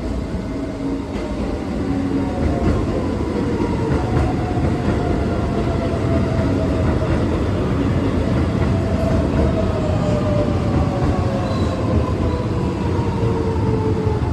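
Keihan 9000-series electric train pulling into the station: a steady rumble of wheels on rail, with the motors' whine falling steadily in pitch as the train brakes and slows.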